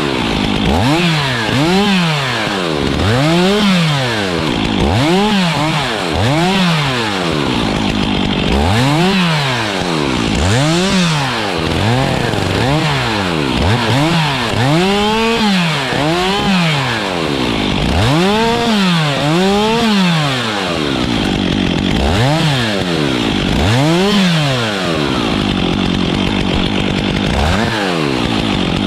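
Stihl chainsaw's two-stroke engine revved up and let back down over and over, roughly once a second. It runs more evenly near the end.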